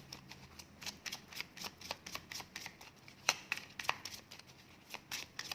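Cards being shuffled and drawn by hand: a run of quick papery snaps and flicks, with a louder snap about three seconds in.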